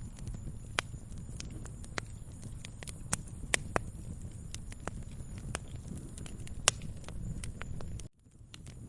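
Wood fire crackling in a fireplace: irregular sharp pops and snaps over a steady low rumble. The sound drops out for about half a second near the end.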